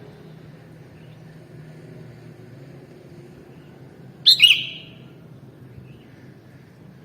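Sooty-headed bulbul giving one short, loud call about four seconds in, over a steady low background hum.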